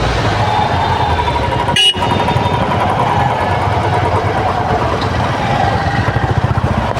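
Road traffic in a jam: vehicle engines, motorcycles among them, running at low speed or idling. There is a short sharp break about two seconds in.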